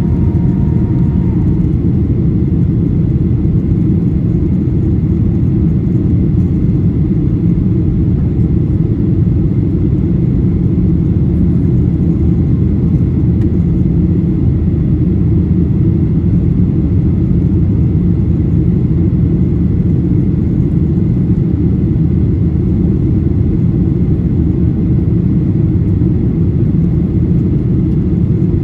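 Steady engine and airflow rumble inside the cabin of a Boeing 737-800 jet airliner in flight, with a faint steady tone that stops just over a second in.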